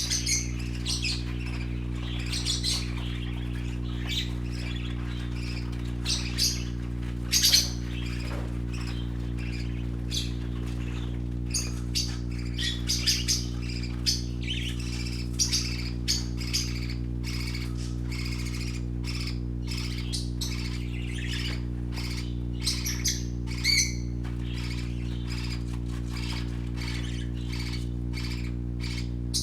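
Young parakeets chirping and squawking in frequent short, high calls, over a steady low hum.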